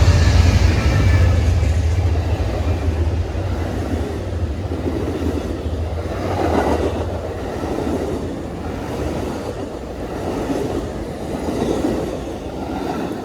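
A train passing close by: a heavy rumble of wheels on rail, swelling again and again as the cars go by, slowly fading toward the end.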